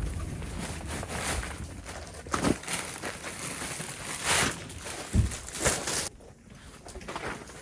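Handling noise: rustling and crinkling with a few short, sharp knocks. It drops off abruptly about six seconds in.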